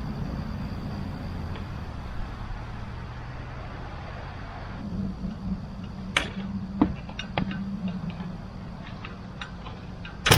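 A low steady rumble that fades over the first few seconds, followed by a run of sharp clicks and knocks, the loudest one near the end.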